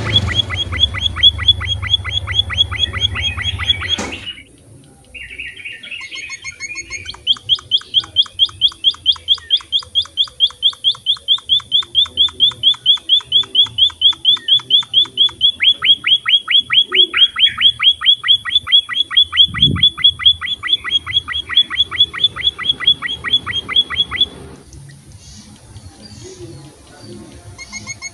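Emprit (munia finch) birdsong: a long, even run of high chirps at about five a second. It breaks off about four seconds in, starts again after about three seconds and runs on until it stops about twenty-four seconds in. A low hum lies under the first four seconds, and there is a single low thump near twenty seconds.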